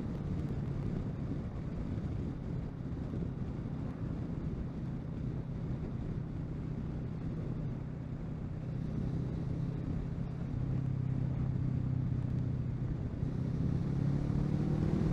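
Kawasaki Versys 650 parallel-twin engine running at a steady cruise, under wind and road noise. The engine note grows louder near the end.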